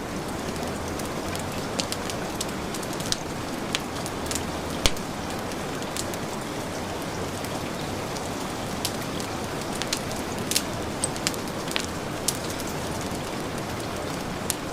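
Steady heavy rain with a wood fire crackling over it: irregular sharp pops and snaps, a louder pop about five seconds in.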